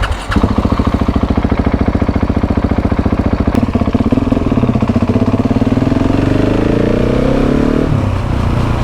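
KTM 690 SMC R single-cylinder four-stroke engine through a LeoVince exhaust, pulling away: thudding at low revs, then revving up steadily for a few seconds before the revs drop suddenly near the end.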